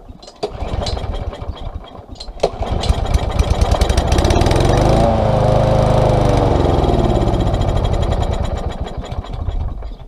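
Small lawn mower engine pull-started on starting fluid: a couple of seconds of cranking, then it catches, speeds up and winds back down, dying out near the end. That it runs only on starting fluid says the fault is fuel delivery, with a plugged carburetor jet suspected.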